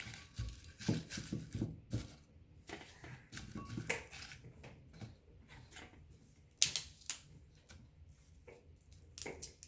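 Dry bark being broken up by hand, in irregular snaps and crackles with a few sharper cracks in the second half.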